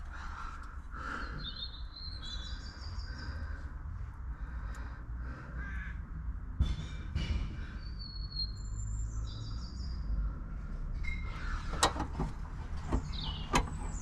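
Birds calling, with harsh caw-like calls and higher repeated chirps, over a steady low rumble; a few sharp clicks and knocks near the end.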